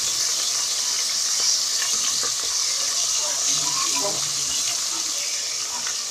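Tomatoes and tomato paste frying in hot oil in a pot: a steady sizzling hiss with small crackles and pops.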